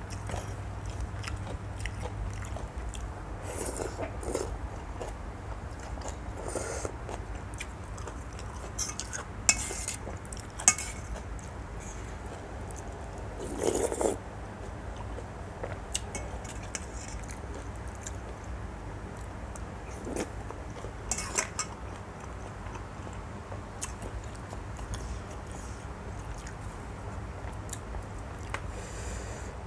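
A person eating a bowl of pork noodle soup: chewing, with scattered short clicks of utensils against the bowl, over a low steady hum.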